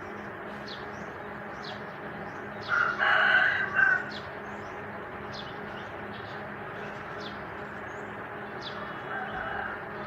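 A rooster crows once, a little under three seconds in, in one call lasting just over a second. Short high chirps repeat every second or so throughout.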